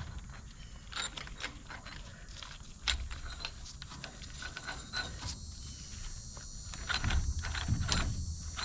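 Hand ratchet wrench clicking in quick irregular runs as bolts on a DeSoto Hemi engine are worked loose by hand, with a few heavier metal knocks near the end.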